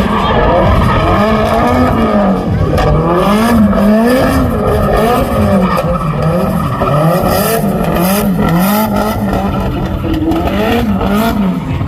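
Drift car's engine revving up and down about once a second under hard throttle while drifting, with tyre squeal and skid noise.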